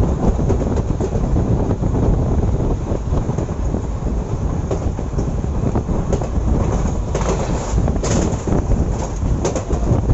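Passenger train running along the track, heard on board: a steady, loud rumble of coach wheels on the rails, with scattered clicks as they cross rail joints.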